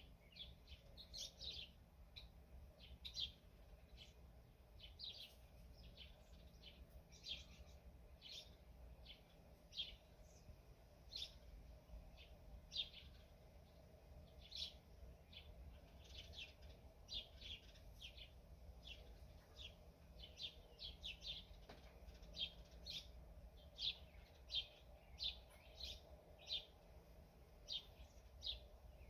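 Songbirds chirping: many short, high notes repeating every half second to a second, faint.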